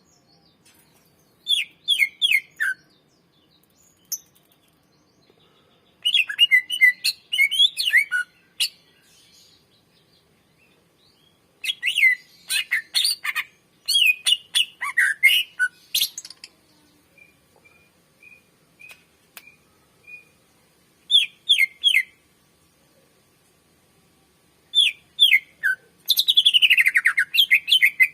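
A cucak ijo (greater green leafbird) singing in loud bursts of fast, chattering, whistled phrases with short pauses between them. About two-thirds of the way in there is a row of short, soft single notes, and near the end a dense, fast run of notes that falls in pitch.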